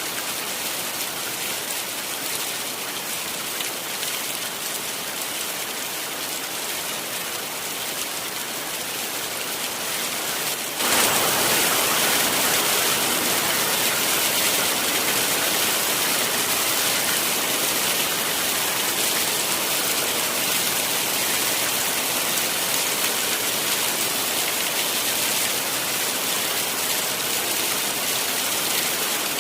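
Heavy rain falling steadily, which turns suddenly louder and fuller about a third of the way through and then holds.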